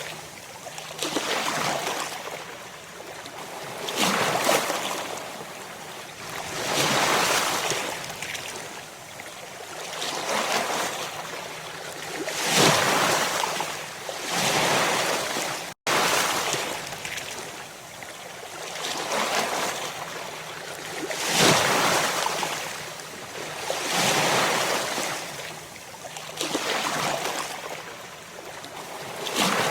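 Ocean waves breaking and washing in the surf, swelling and fading about every two to three seconds. The sound cuts out for an instant about halfway through.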